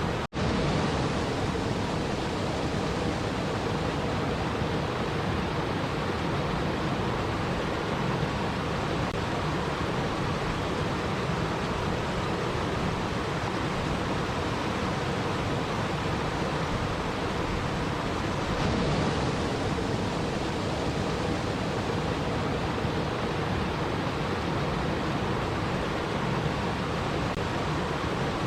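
Steady, even rushing of water, with a momentary dropout just after the start where the recording is spliced.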